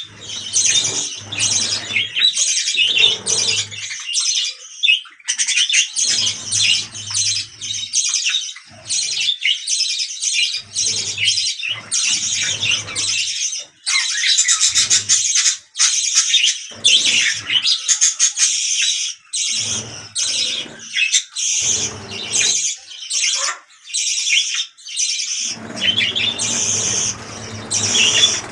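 A flock of budgerigars chattering and warbling, a fast, continuous jumble of chirps and squawks broken by a few short pauses.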